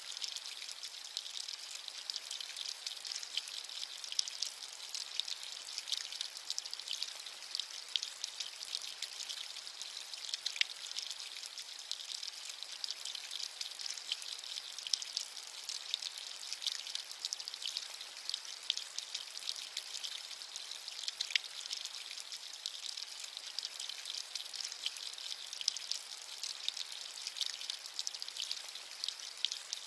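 Steady rain with many fine drop ticks over an even hiss.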